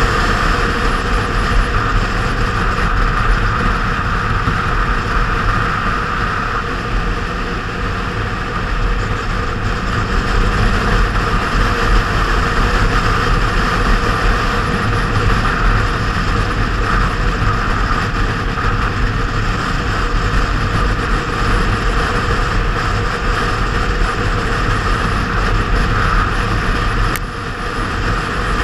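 Motorcycle riding at road speed, its inline-four engine running steadily under heavy wind noise on the microphone. The sound eases off briefly near the end.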